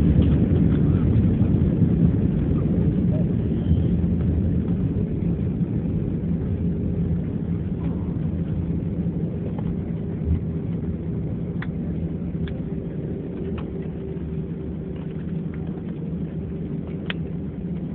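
Airbus A321 cabin noise: a steady low rumble of engines and airflow that fades gradually as the airliner slows after landing. A faint steady hum joins partway through, with a few light clicks.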